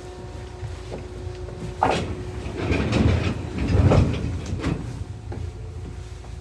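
Nishitetsu 600 series electric train running, with a steady rumble throughout. About two seconds in comes a sudden sharp knock, then louder clattering of the wheels around three and four seconds in before it settles back.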